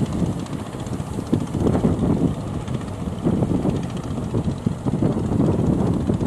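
Wind buffeting the microphone over the steady rumble of a fishing boat's motor crossing rough water.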